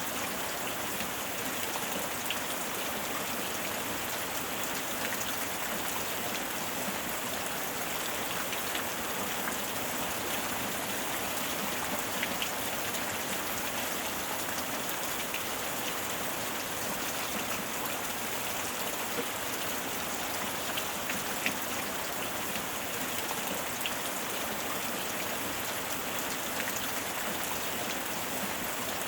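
Steady heavy rain, a dense even hiss with scattered individual drops pattering on a surface.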